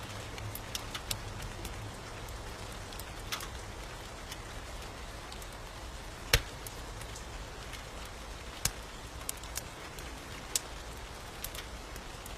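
Wood fire crackling in a fireplace, with scattered sharp pops, the loudest about six seconds in, over a steady hiss of rain.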